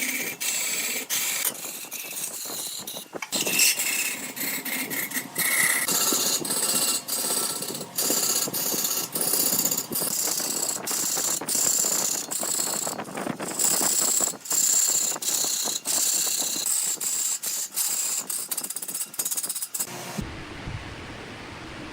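Hand-held turning tool cutting into wood spinning on a wood lathe: a hissing, scraping cut broken by many brief gaps. Near the end it stops abruptly and gives way to a low rumble.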